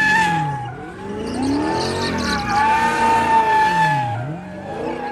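A car doing donuts: the engine revs up and down twice while the tyres squeal steadily, with the squeal dipping briefly each time the revs drop.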